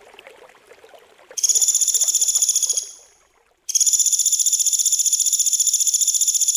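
Faint trickling water, then a loud, fast rasping buzz call from a songbird: the harsh 'besetan' (mbeset) call used in bird-master training tracks. It starts about a second and a half in, fades away, stops briefly, and starts again and carries on.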